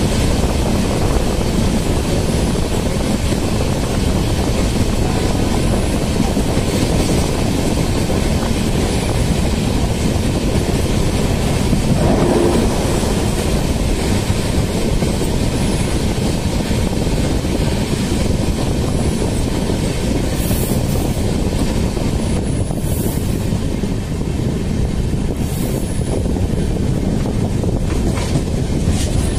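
Passenger train running along the track, heard from on board: a steady, loud rumble of wheels on rails, with a brief swell about twelve seconds in and a few short high hisses later on.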